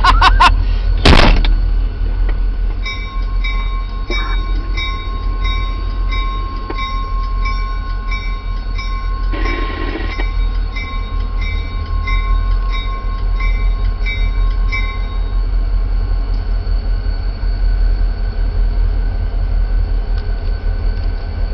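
Train with a New Haven Railroad FL9 locomotive rumbling past, with a sharp bang about a second in. A bell rings steadily at about one strike a second from about three seconds in until about fifteen seconds in.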